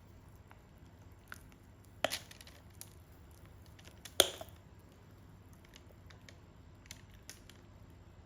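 Two sharp knocks about two seconds apart, the second the louder, among a few lighter clicks, as objects are handled and set down.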